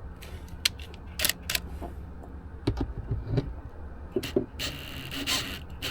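Scattered small clicks and metallic clinks of a car-audio woofer being fitted into its mounting and its screws started by hand, with a brief scraping rustle about four and a half seconds in.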